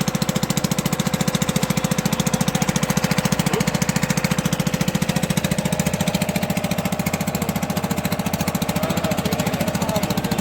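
An engine running steadily at close range, with a rapid, even chugging beat of roughly ten pulses a second.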